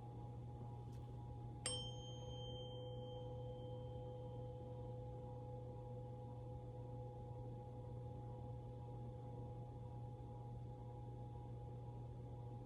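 A metal tone struck once, about two seconds in, ringing clear and fading slowly over about ten seconds, with its higher overtones dying away first. A faint steady hum runs underneath.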